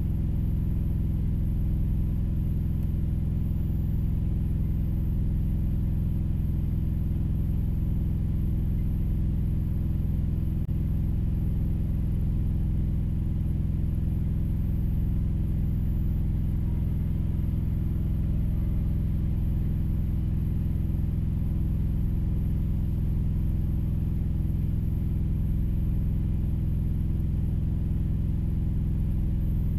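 Engine idling steadily, an even low drone heard from inside the vehicle's cab.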